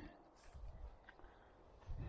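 Near silence, with a faint low rumble and a few soft, faint knocks, the last a dull thump near the end.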